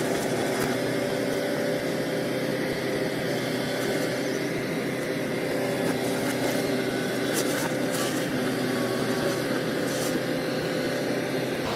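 Diesel engine of heavy earthmoving equipment running steadily at a constant pitch, with a few faint clicks.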